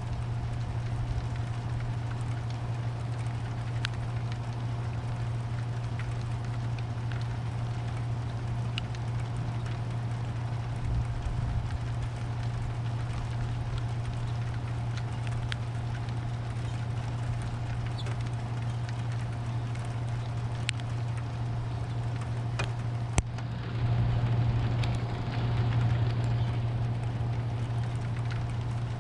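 Thunderstorm rain with scattered drips over a steady low hum. About 23 seconds in there is a sharp click, followed by a few seconds of louder low rumble, likely distant thunder.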